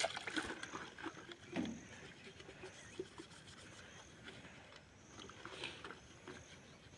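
Utensils being washed by hand: scrubbing with scattered light knocks and clinks of dishes.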